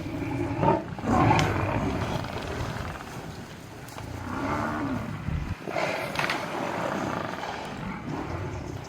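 Lions growling at a Cape buffalo kill, mixed with long, low bellows from the dying buffalo; the calls come in several rough bursts.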